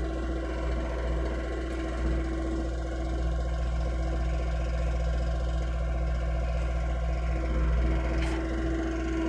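Hitachi mini excavator's diesel engine running steadily, a low even drone with a steady hum above it.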